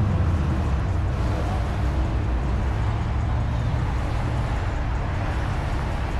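Car in slow post-fireworks traffic: a steady low rumble of engine and road noise.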